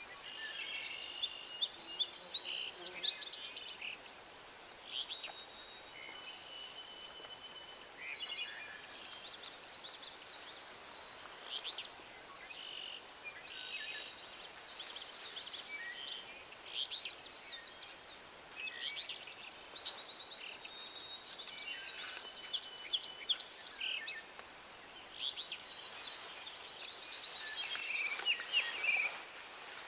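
Several songbirds singing and calling at once: overlapping chirps, rapid trills and short whistled notes.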